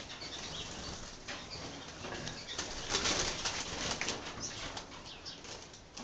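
Small caged finches fluttering and moving about, wings whirring in short bursts, the loudest about three seconds in, with a few faint short calls.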